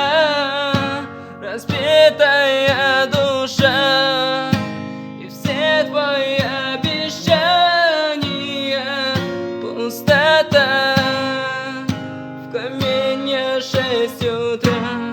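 Singing without clear words, long wavering held notes with vibrato, over strummed acoustic guitar chords.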